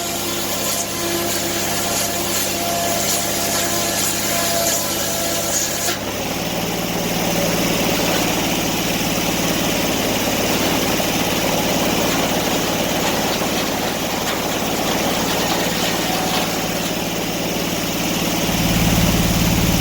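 An engine running steadily. About six seconds in its note changes and a broad rushing noise joins it, and near the end a deeper hum rises.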